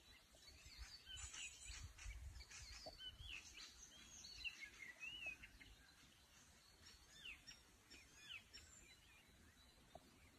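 Faint birdsong: many short chirps and quick whistled notes, busiest in the first half and thinning out near the end, over a faint low rumble.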